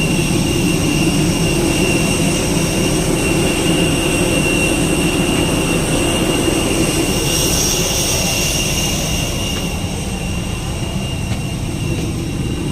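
Jet airliner engines running steadily, a continuous noise with a high whine. A brief surge of hiss comes about seven seconds in, and the sound eases slightly near the end.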